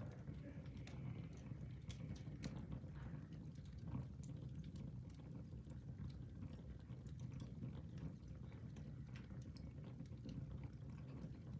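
Wood fire in a fireplace crackling: irregular sharp snaps and pops over a steady low rumble.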